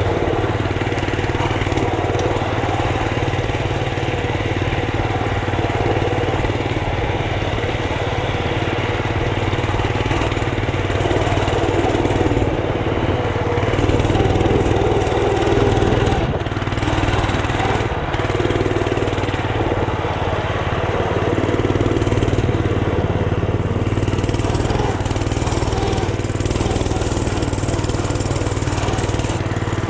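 Mini bike's small engine running steadily.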